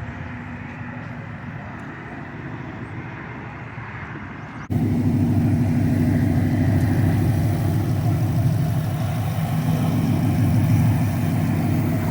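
A faint steady engine hum, then an abrupt cut about five seconds in to a loud, steady car engine idling close by.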